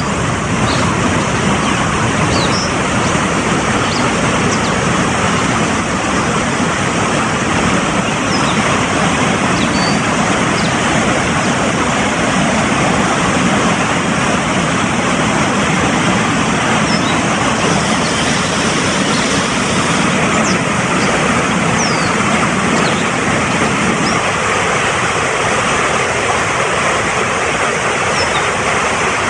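Fast-flowing mountain stream rushing over rocks in a steady, loud wash of water. Now and then a bird gives a brief high chirp.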